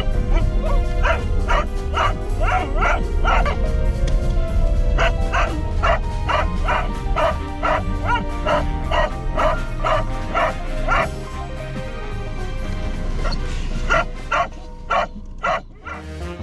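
Brittany spaniel barking over and over, about two barks a second, in runs with pauses around four seconds in and again from about eleven to fourteen seconds in, over background music.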